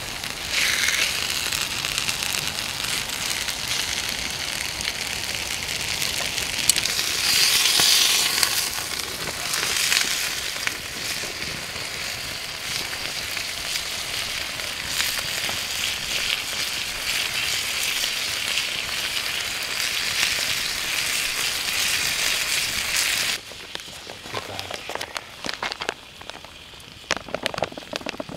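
Meat sizzling and frying in a pan over a wood campfire, a steady hiss with fine crackling. About 23 seconds in it cuts off suddenly to a much quieter stretch of light scattered clicks as cooked rice is tipped from a pouch onto an enamel plate.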